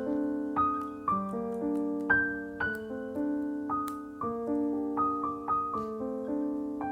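Background piano music, a gentle melody of notes struck about twice a second over held chords.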